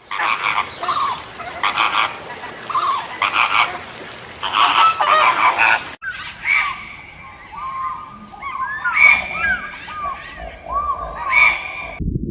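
Geese honking: many short calls overlapping, as from a flock. About halfway through, the sound cuts to a second recording of honking geese.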